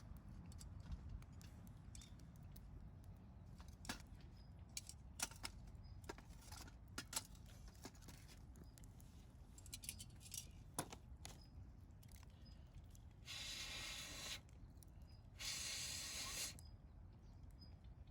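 Campfire wood crackling and popping faintly in scattered sharp snaps. Near the end come two short hisses, each about a second long.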